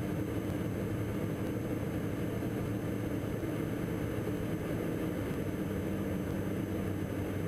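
Steady drone of the Diamond DA42 NG's twin Austro AE300 turbo-diesel engines and propellers in the cockpit during cruise, even and unchanging.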